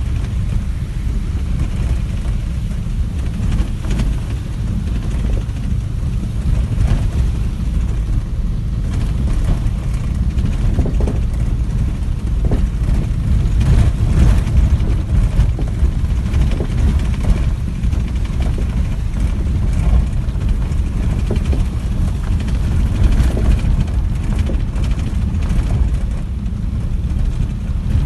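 Strong wind buffeting the microphone: a loud, low, unbroken rumble.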